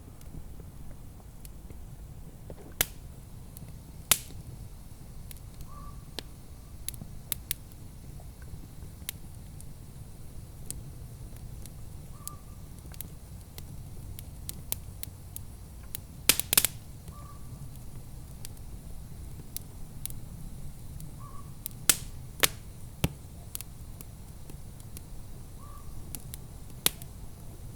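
Wood fire crackling, with irregular sharp pops and snaps, a few louder ones, over a steady low rumble. A faint short call recurs every four to six seconds.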